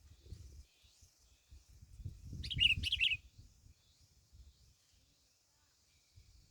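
A small bird singing: faint high chirps throughout, with a short, louder burst of rapid chirps about two and a half seconds in. A low rumble runs underneath.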